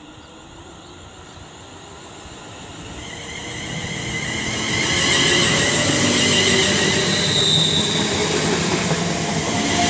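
Class 350 Desiro electric multiple unit pulling out and accelerating past, the sound of its motors and wheels building over the first five seconds and then holding steady as the coaches go by.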